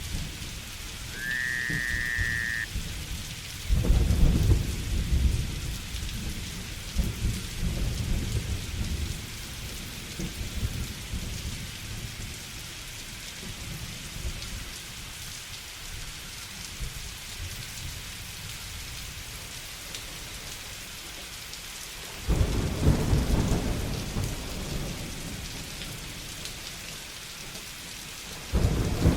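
Steady rain with thunder rumbling in three sudden swells: about four seconds in, again about 22 seconds in, and once more near the end. About a second in comes a short whistled animal call that rises and then holds.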